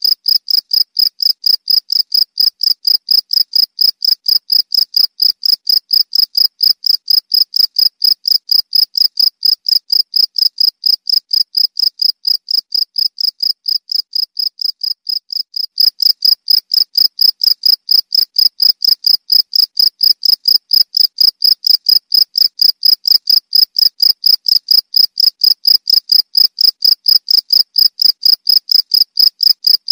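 Cricket chirping loudly in a fast, even pulse of about four to five chirps a second, high-pitched. The pulse breaks briefly about 15 seconds in and picks up again at the same pace.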